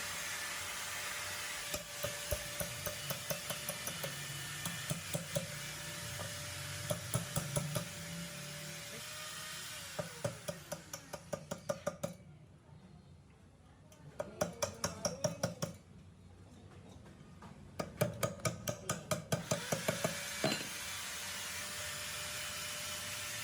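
Bursts of rapid metallic clicks or taps, about four a second, over a steady machine hum. The hum cuts out briefly twice in the second half.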